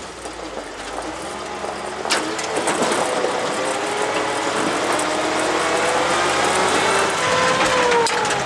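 1981 GMC C7000 dump truck's engine running, its pitch climbing steadily for several seconds as the truck picks up speed, then falling near the end. A single knock about two seconds in.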